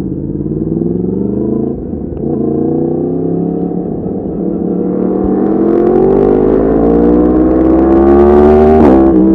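Yamaha MT-10's crossplane inline-four through an Akrapovic exhaust, ridden under acceleration. The engine pitch climbs and dips briefly at gear changes about two and four seconds in, then rises in one long pull before dropping sharply at an upshift near the end.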